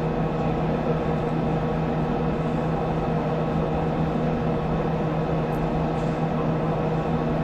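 Steady electrical hum with even hiss on the launch broadcast's audio feed, holding the same few tones throughout with no change.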